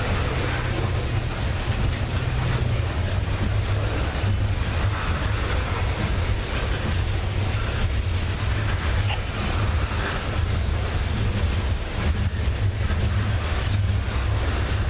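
Diesel freight locomotives running with a steady low engine drone. The engine note steps down slightly about three seconds in.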